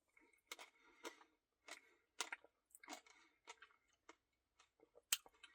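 Faint chewing of a mouthful of Caramel Truffle Blizzard ice cream: scattered soft crunches and mouth clicks, with one sharper click near the end.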